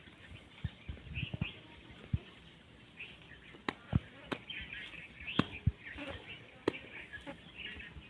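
Small birds chirping on and off, with scattered sharp clicks and taps.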